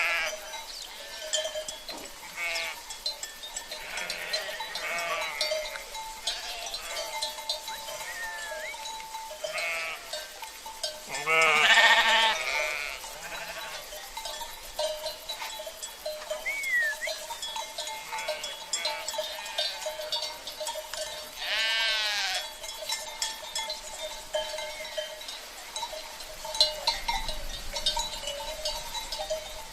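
A flock of sheep bleating again and again, the loudest bleats about 12 and 22 seconds in, over the steady ringing of cowbells.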